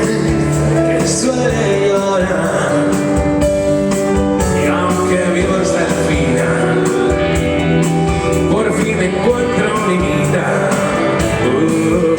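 A rock band playing live at a steady, loud level, with no clear sung words.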